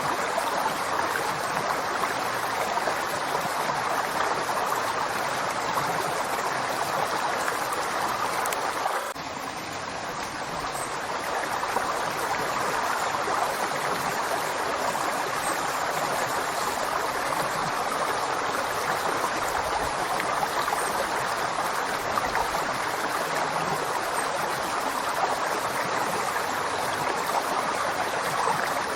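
River water flowing steadily, an even watery noise; it dips briefly in level about nine seconds in, then comes back.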